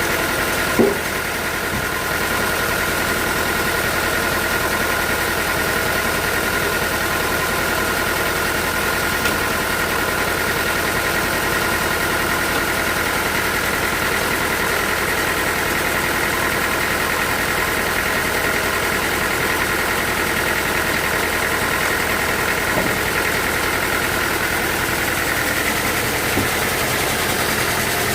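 Sawmill machinery running steadily: a constant engine-like hum with a steady high whine, and a short knock about a second in.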